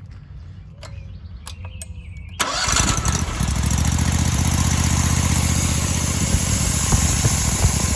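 The engine of a homemade band sawmill starts after a few clicks, catching abruptly about two and a half seconds in. It then runs steadily, driving the band blade.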